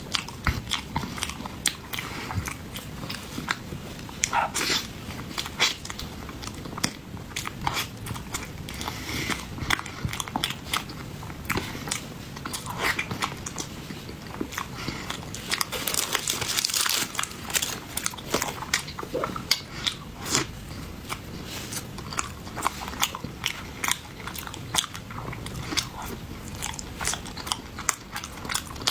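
Close-miked chewing of soft snow-skin mochi (xuemeiniang) with a cream and jam filling, full of small, irregular mouth clicks and smacks.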